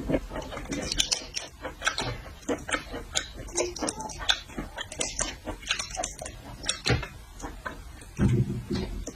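Close-miked eating of seafood: a dense run of short wet clicks and crunches from chewing and mouth noises. A brief voiced hum or murmur near the end.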